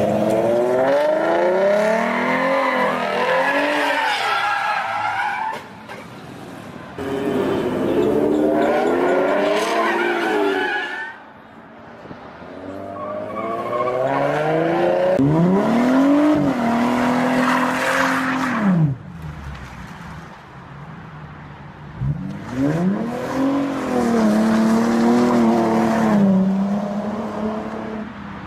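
Ford Mustang's engine revving hard through several full-throttle runs with tyres squealing, as the car is thrown sideways out of a corner. Each run climbs to a high held rev, then drops off sharply before the next.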